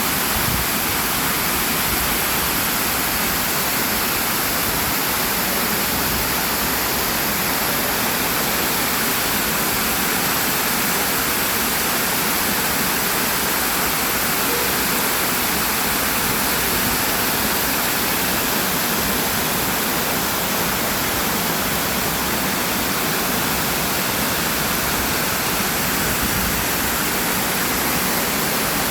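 Water falling over a waterfall into a river, a steady rush that doesn't change.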